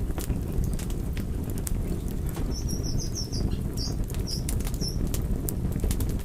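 Wood fire burning: a steady low roar with frequent sharp crackles and pops. A run of short, high chirps comes about halfway through.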